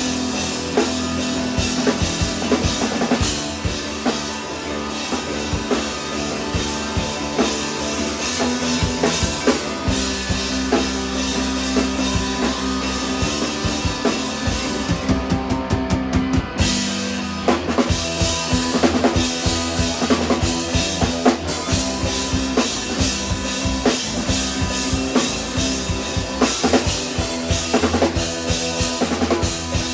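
A three-piece instrumental band playing live, the drum kit loudest with dense kick and snare hits over held notes.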